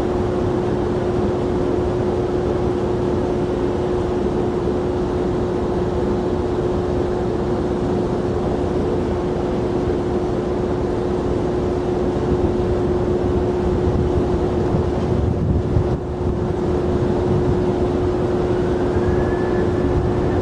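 Jet airliner engines running: a steady roar with a constant hum. Near the end a whine rises in pitch.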